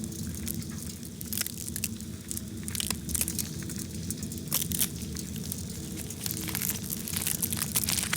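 Amplified sound of a butterfly pupa inside an ant nest: irregular crackling and clicking over a steady low hum, the pupa signalling to the ants for attention.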